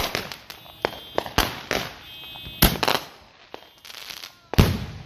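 Consumer fireworks going off: a series of sharp bangs at irregular intervals, some trailing off briefly, the loudest about four and a half seconds in.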